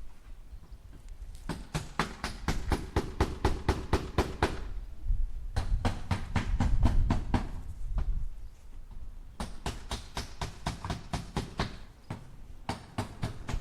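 A hammer tapping nails into wood in quick runs of light strikes, about five a second, in four bursts with short pauses between them.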